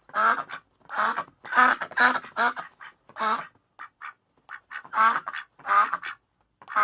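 Duck quacking: a run of short quacks, roughly one or two a second, with fainter short calls in between.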